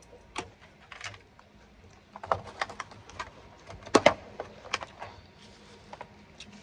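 Irregular clicks and clatters of eating utensils against a salad container, with a loud double clatter about four seconds in.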